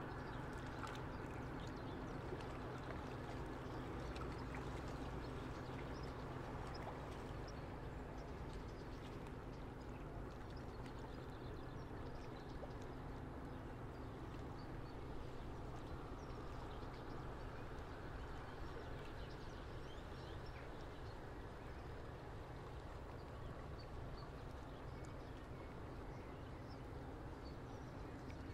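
River water moving against a breakwater, an even wash of water sound with a steady low hum beneath it and faint high chirps scattered through.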